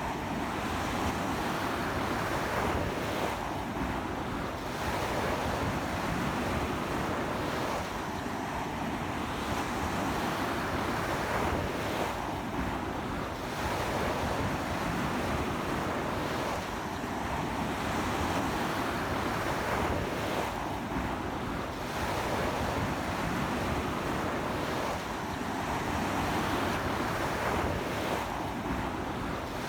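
Strong sea surf breaking and washing onto a beach, a continuous rushing that swells and eases every few seconds, with strong wind blowing across the microphone.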